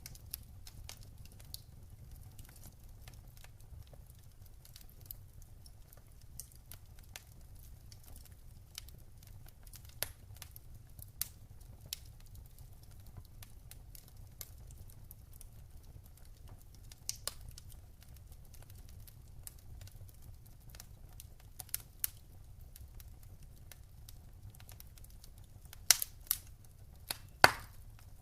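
Wood fire crackling in a fireplace, with scattered sharp pops and snaps over a low, steady rumble. Two louder pops come near the end.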